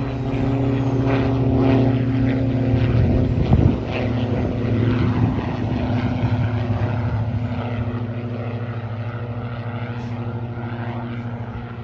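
Propeller airplane engine running steady and loud nearby. It is loudest about three to four seconds in, then slowly fades as the plane moves away.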